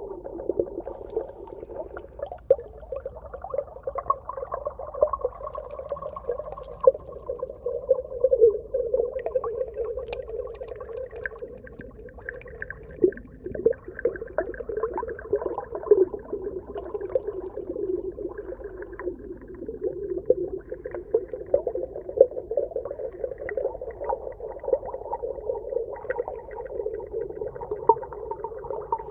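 Underwater ambience: a steady, dull rushing, dense with tiny crackles and pops throughout.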